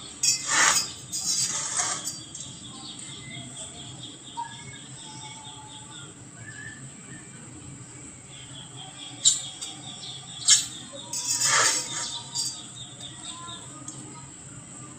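Insects trilling steadily in the background, a fast pulsing chirp that pauses midway and comes back. A few sharp taps or clicks sound twice near the start and three times around two-thirds of the way through.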